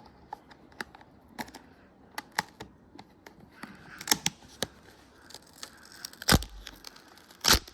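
Adhesive vinyl graphics decal being peeled off a dirt bike's plastic bodywork: crackling, tearing adhesive with scattered clicks. Two louder sharp knocks near the end.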